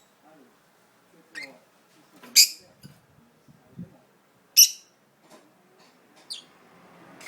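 Budgerigar giving four short, sharp, high chirps a second or two apart, the second and third loudest, with soft low chatter between. These are the calls of a budgie unsettled at being put somewhere unfamiliar.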